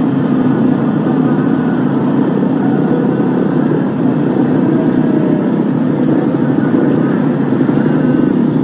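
Motocross bike engines running on the track, a steady drone.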